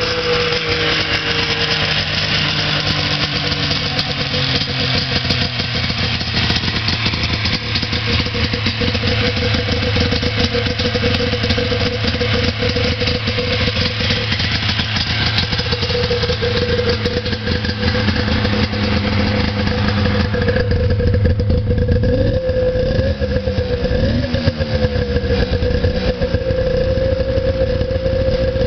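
Polaris XLT 600 snowmobile's two-stroke engine idling steadily on a cold start after an engine rebuild. About 21 seconds in, the engine note changes, followed by a few brief rises and falls in pitch.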